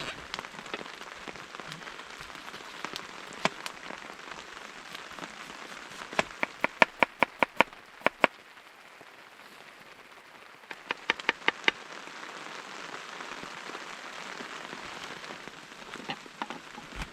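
Steady rain falling, with two quick runs of knife chops on a cutting board at about four a second, one about six seconds in and another a few seconds later.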